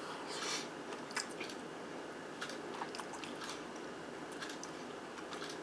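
Close-miked chewing and biting of a zucchini boat with ground turkey and melted cheese: irregular soft wet smacks and small clicks of the mouth.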